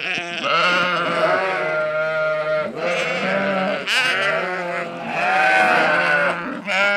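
A flock of dairy sheep bleating together, many overlapping calls with a wavering, quavering pitch, one after another without a break.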